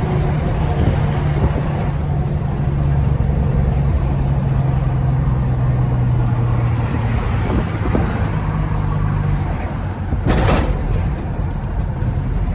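Truck engine running steadily with a low hum that drops in pitch partway through, and a short, loud burst of hiss about ten seconds in.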